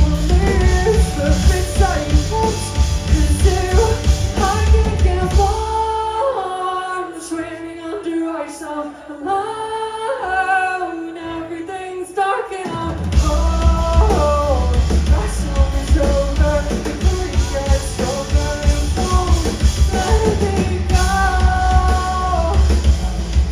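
Live pop-rock band with a female singer. About six seconds in, the drums and bass drop out, leaving the voice and the higher instruments, and the full band comes back in after about thirteen seconds.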